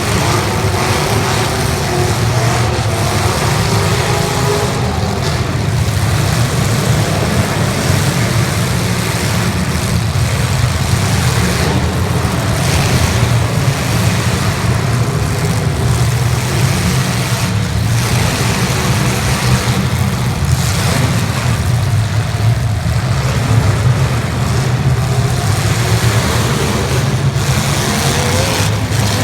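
Several 1980s stock cars' engines revving hard over a steady low drone, the pitch rising and falling as the cars accelerate and reverse, with a few sharp bangs of cars hitting each other.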